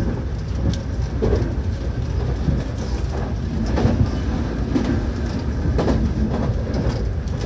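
Nankai electric train running, heard from inside the car: a steady low rumble with wheels clacking over rail joints and points several times at uneven intervals.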